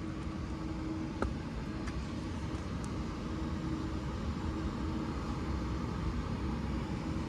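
Steady low rumble and faint hum of a standing Class 397 electric multiple unit's onboard equipment, with a single click about a second in.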